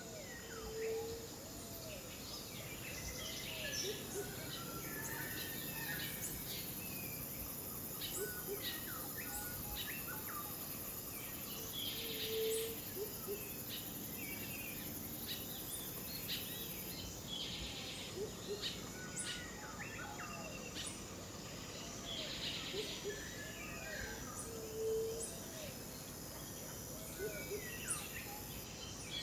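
Rainforest ambience: many birds chirping and calling, with insects buzzing and a steady high insect hiss underneath. A short low whistled call comes back about every twelve seconds.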